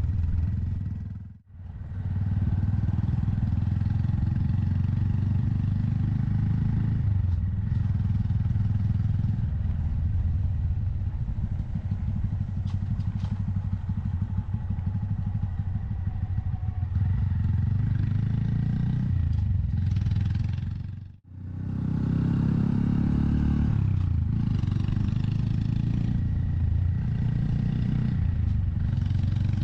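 Honda Monkey 125's single-cylinder engine running while riding, its note rising and falling as it changes speed in the second half. The sound cuts out briefly twice, about a second in and again later.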